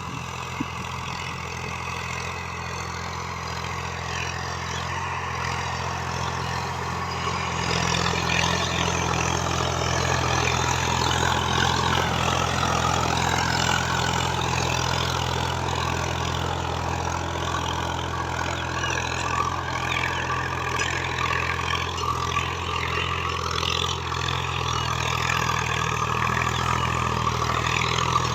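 Diesel engine of a 745 DI tractor running steadily, getting louder over the first eight seconds and then holding level.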